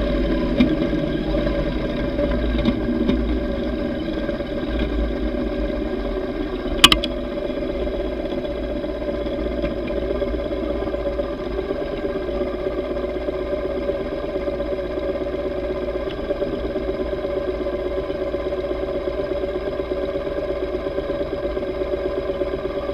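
Yamaha V Star 950's V-twin engine running steadily at cruise, with one sharp click about seven seconds in.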